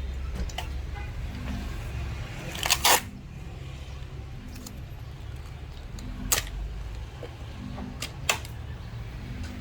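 A few sharp clicks and taps, the loudest a quick double click about three seconds in, over a low steady rumble.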